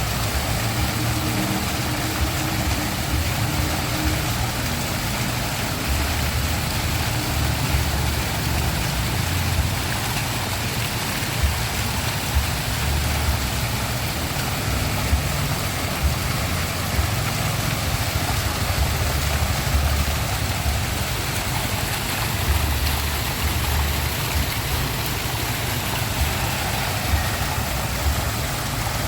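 Waterfall rushing: a steady, loud wash of water noise with a deep, uneven rumble underneath.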